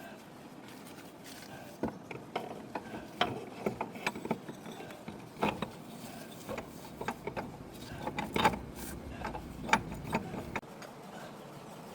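Irregular metallic clicks and knocks of hand tools and metal parts being worked during a tractor repair. They come in uneven clusters and stop shortly before the end.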